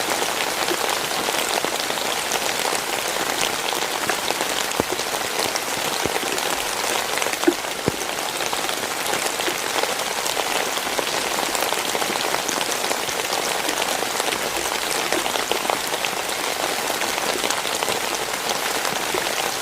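Heavy rain falling steadily, a dense hiss of drops hitting the ground and hard surfaces, with individual drops ticking now and then.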